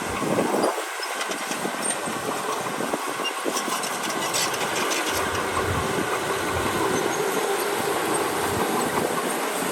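Heavy earthmoving machinery running steadily, with light metallic clatter.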